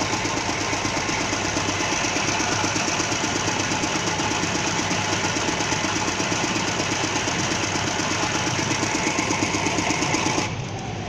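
Computerised embroidery machine stitching, its needle running in rapid, even strokes. The sound drops abruptly to a quieter level about ten and a half seconds in.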